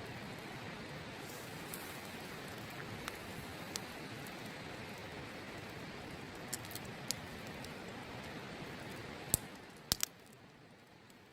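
Open wood fire crackling, with scattered sharp pops and a loud double pop about ten seconds in, over a steady rush of river water that fades near the end.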